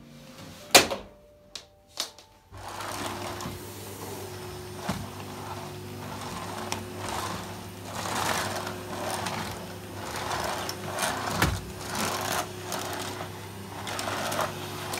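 A few sharp clicks, then a small motor starts about two and a half seconds in and runs at a steady pitch, with a swishing sound going back and forth over it about once a second.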